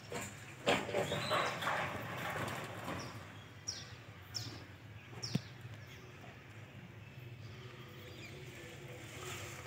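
Outdoor ambience: a few seconds of rustling knocks, then three short, high, falling bird whistles, about a second apart.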